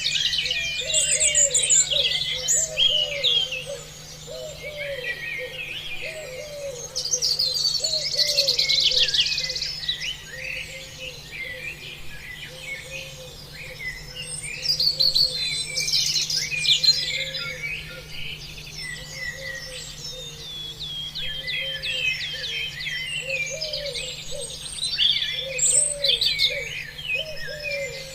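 A chorus of many birds chirping and singing at once, with dense overlapping trills and tweets, over a lower call that repeats steadily throughout.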